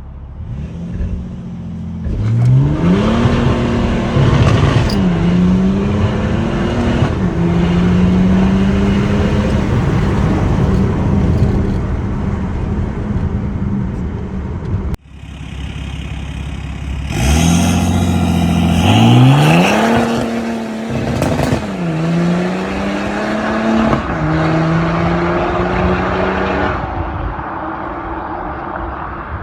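BMW 330d's N57 three-litre straight-six diesel, with a catless downpipe and straight-pipe exhaust, accelerating hard twice. In each pull the engine note climbs steeply, then drops sharply at two quick upshifts before settling into a steadier, rising drone. The sound breaks off abruptly about halfway through and starts again, and near the end it eases to a quieter steady run.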